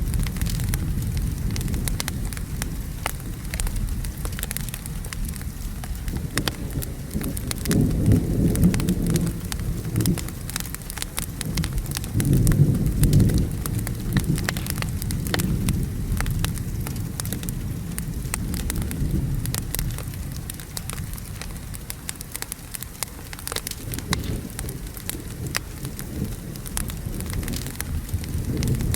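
Wood fire crackling with many sharp little pops over steady rain, with a low rumble of thunder that swells twice, about 8 and 13 seconds in.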